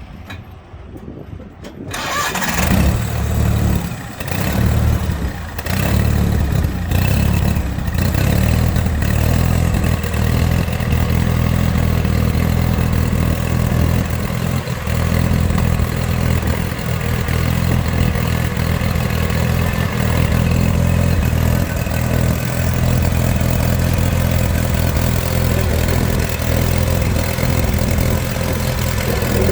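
John Deere 318 lawn tractor's two-cylinder gasoline engine starting about two seconds in, running unevenly with a few dips for several seconds, then settling into steady running.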